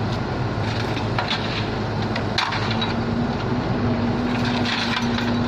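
A diesel engine runs steadily, with a few sharp metallic knocks and clanks, as the loading ramps are lifted.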